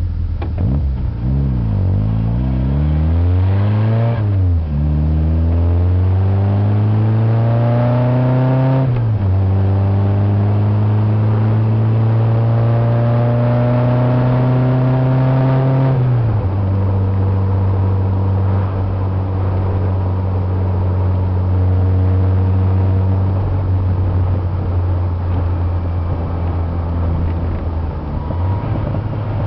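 1974 MG Midget's four-cylinder engine pulling away and accelerating up through the gears: the note climbs and drops back with each upshift, three times in the first half, then holds a steady cruise.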